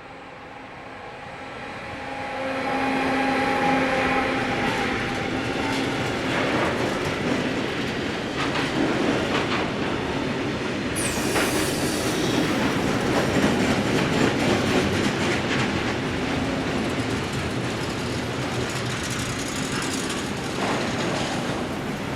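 Freight train passing at speed behind a Siemens Vectron electric locomotive: a steady hum from the locomotive as it comes up, loudening over the first few seconds, then the wagons' wheels clattering over rail joints, with a brief high wheel squeal about halfway through.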